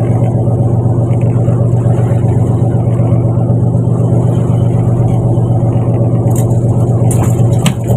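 Fishing boat's engine running at a steady speed with a loud, even low drone. A few sharp clicks or knocks come in over it near the end.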